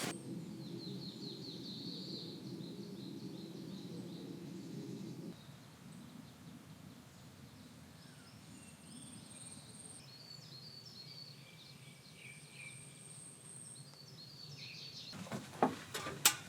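Small birds chirping in short repeated phrases over a low steady outdoor background noise, with a few sharp knocks about a second before the end.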